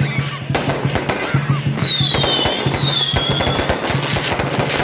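Fireworks and firecrackers going off in dense, rapid crackling bursts, with two high whistles falling in pitch near the middle. A steady drumbeat of music runs underneath.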